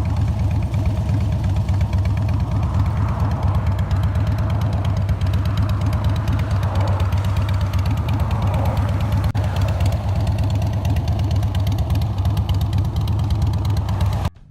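Motorcycle engine idling loudly and steadily, with fast even firing pulses, cutting off abruptly near the end.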